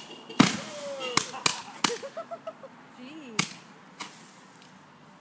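Consumer fireworks going off: a loud bang about half a second in, then a string of smaller sharp cracks over the next few seconds, thinning out near the end.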